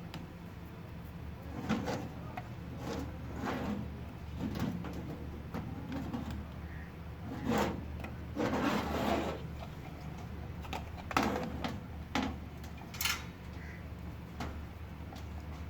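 Irregular scraping, clicking and knocking of hand work with small tools, a dozen or so short strokes spread unevenly, over a steady low hum.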